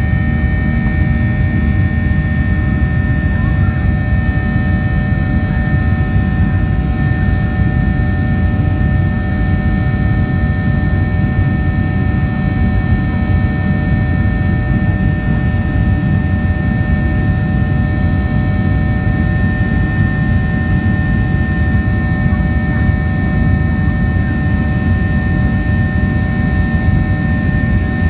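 Cabin noise of a Boeing 737-700 at takeoff: its CFM56-7B turbofans and the airflow give a steady, loud rumble, with a steady high engine whine over it.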